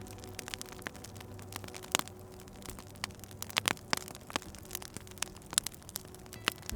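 Wood fire in a fireplace crackling: irregular sharp pops and snaps, with a few louder pops about two seconds in and again near the middle, over a faint low hum.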